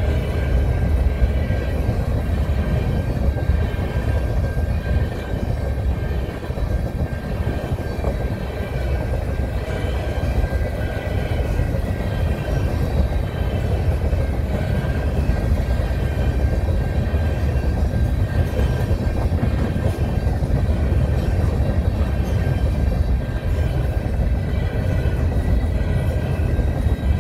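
Freight train of covered grain hopper cars rolling past: a steady rumble of steel wheels on the rails, with faint high-pitched tones ringing over it.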